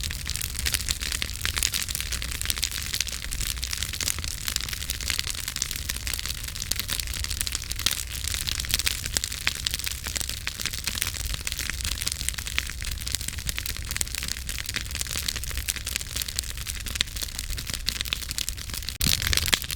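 Campfire burning, wood crackling and popping continuously over a low rumble of the flames.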